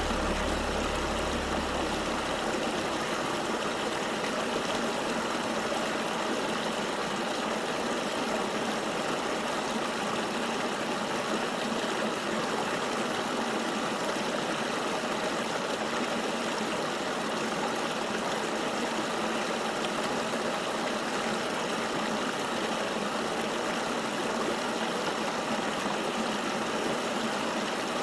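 River water flowing steadily, an even rushing noise with no lulls. A low rumble underneath stops about two seconds in.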